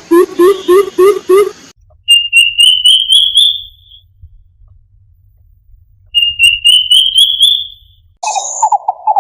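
Cuckoo calls. A fast series of low, rising hooting notes stops a little under two seconds in. Two bouts follow of about five high whistled notes, each note pitched a little higher than the one before, and near the end a lower, rapidly pulsing call begins.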